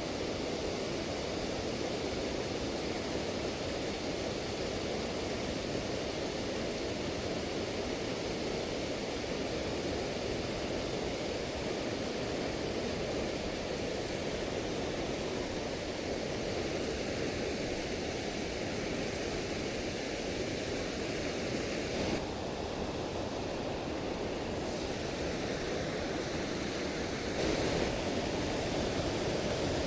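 Steady rush of a river and waterfall, an even roar of falling water that shifts slightly in tone twice near the end.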